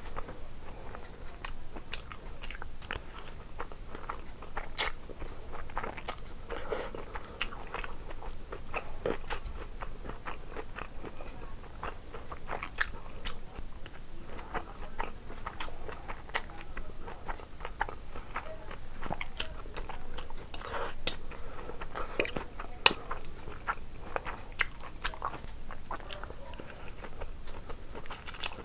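A person eating close to the microphone: irregular bites, crunches and chewing.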